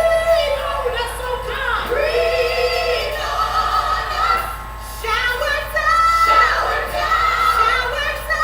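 A woman singing a gospel song over music, holding long notes.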